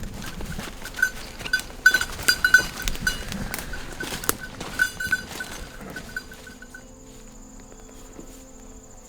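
A small bell on a hunting dog's collar jingling irregularly as the dog moves about, the jingling stopping about seven seconds in.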